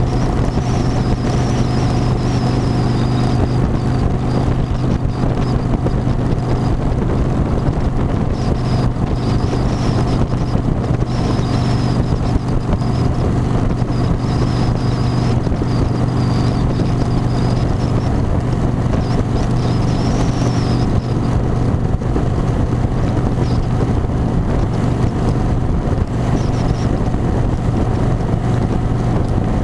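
Harley-Davidson motorcycle engine running at a steady cruise, a constant low drone with a faint wavering high whine, and wind rushing over the microphone.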